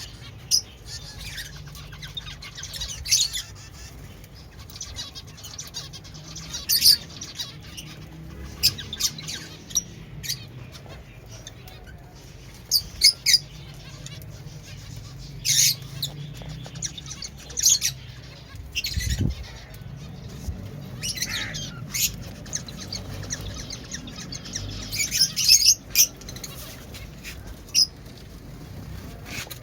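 Pet finches chirping in their cage: short, sharp high calls at irregular intervals, over a steady low hum.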